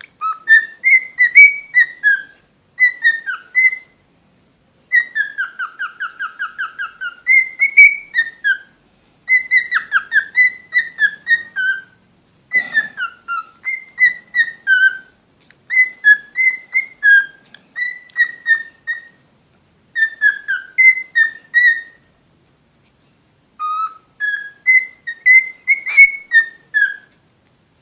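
A songbird singing loud, clear whistled phrases of short varied notes, with pauses between phrases and a rapid, even trill about five seconds in.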